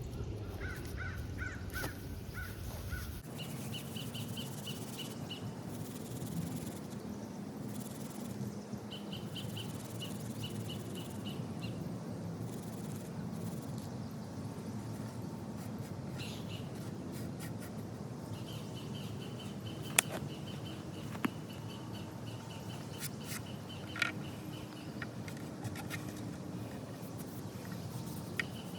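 Birds calling in the background, in several runs of quick, repeated high-pitched notes, over a steady low outdoor hiss, with a few sharp clicks in the second half.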